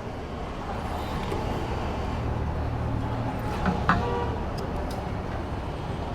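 Steady low engine hum and road traffic noise, with a short horn toot about four seconds in and a few light clicks.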